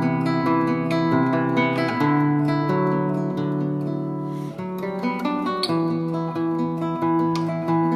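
Background music: acoustic guitar strumming chords in a quick, even rhythm, with no singing.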